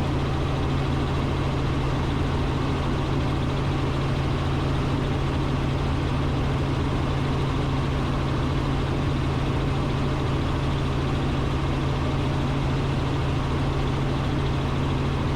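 Robinson R44 Raven II helicopter in cruise flight, heard from inside the cabin: the steady drone of its rotors and six-cylinder Lycoming piston engine, with a constant low hum.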